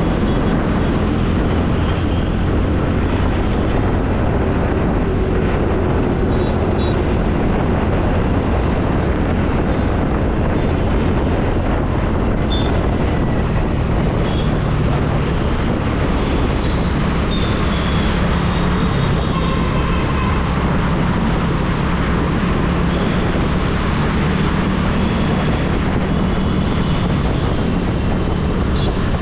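Steady wind rush on the microphone and road noise while riding a TVS Ntorq scooter, with the scooter's engine running underneath.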